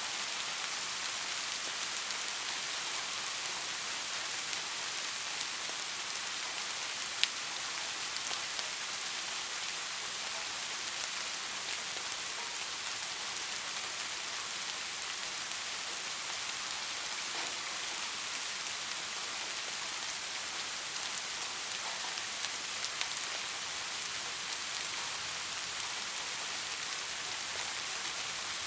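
Steady rain falling, an even hiss with scattered drops ticking, and one sharper, louder drop about seven seconds in.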